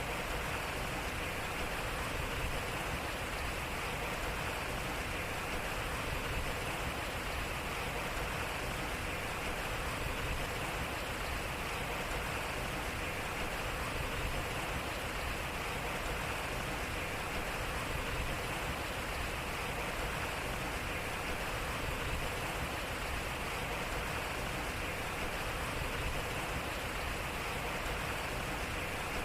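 Water flowing and splashing at a turning water wheel: a steady rushing hiss, even throughout, with no distinct strokes.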